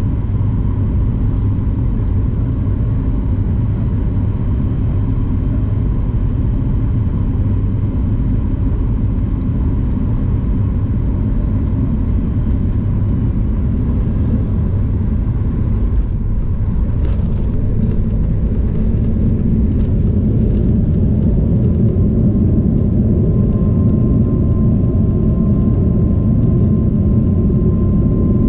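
Steady low rumble of a Boeing 737 MAX 9 airliner's CFM LEAP-1B engines and airflow. Past the middle a sharp knock and light rattling begin. A few seconds later an engine tone rises and holds, and the sound grows a little louder.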